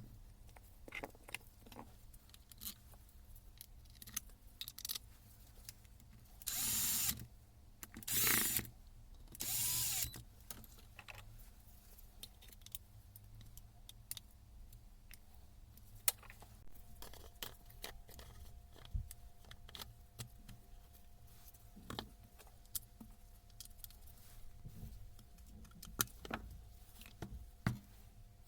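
Workshop handling of tools and parts during a rebuild of a Hilti TE 80 combi hammer: scattered clicks, taps and knocks throughout. Three short, loud bursts of noise come close together a little after six seconds in.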